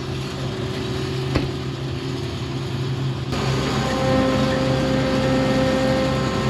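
Diesel engine of farm machinery running steadily, with a single sharp knock about a second and a half in. About halfway through the engine sound suddenly grows fuller and steady higher-pitched tones join in.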